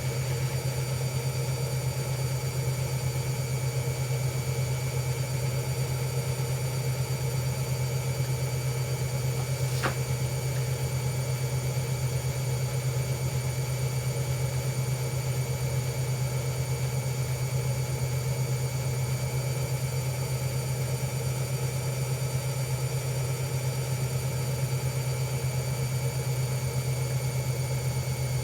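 Hoover Ecologic Computer Washer 1300 washing machine spinning at a steady speed: a constant, unchanging motor hum, with a single brief click about ten seconds in.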